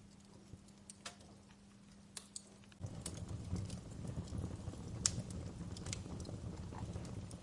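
Wood fire crackling with irregular sharp pops. About three seconds in, a low rumble of burning flames comes in abruptly and the fire grows louder.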